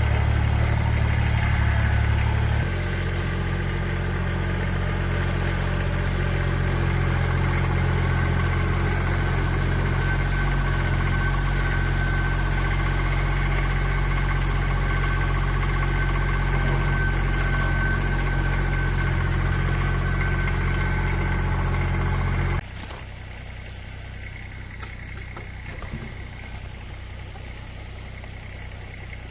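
An engine running steadily with a low hum. It drops slightly in level about two and a half seconds in, then cuts off suddenly a few seconds before the end, leaving a quieter background.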